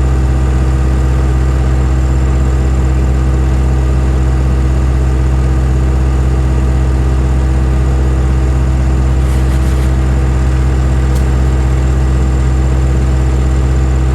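Engine of silage-making farm machinery running steadily at a constant speed: an even, loud drone with no change in pitch. There are two faint ticks about two-thirds of the way through.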